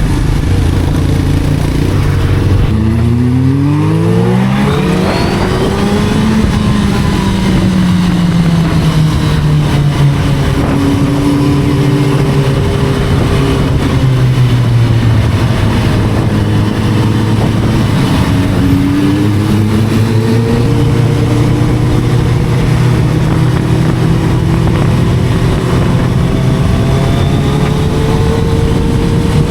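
Sport motorcycle engine under way: the revs climb steeply about three seconds in as it accelerates, then it cruises with the engine note rising and falling gently, and climbs again a little past halfway.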